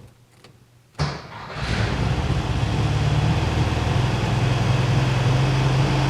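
Volkswagen air-cooled flat-four engine with freshly installed EMPI 34 dual carburettors started warm with a quick bump of the key: it fires about a second in, catches at once and runs steadily.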